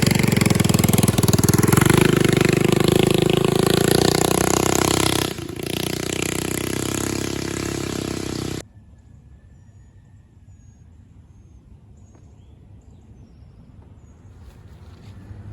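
Mini bike engine running and revving, its pitch climbing over the first few seconds. It drops a little in level about five seconds in, then cuts off abruptly about eight and a half seconds in, leaving only a faint background with a few thin high chirps.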